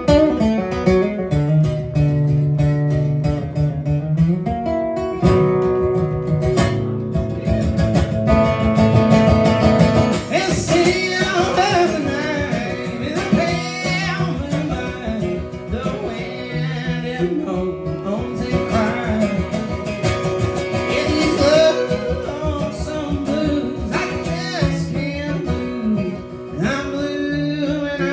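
Acoustic band playing a bluegrass song live, with strummed acoustic guitar prominent and a wavering melody line above it.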